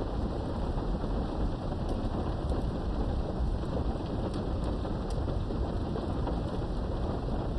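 Steady rain falling, an even hiss with a constant low rumble underneath and a few faint sharp drip ticks.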